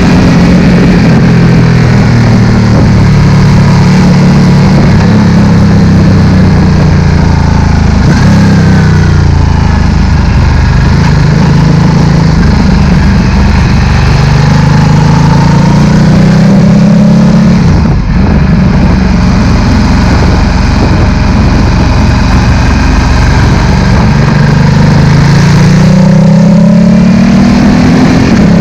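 A Ducati Multistrada 1260's L-twin engine running loud through a Termignoni slip-on exhaust. Its pitch climbs slowly for several seconds and then drops back, several times over, with a short dip about eighteen seconds in.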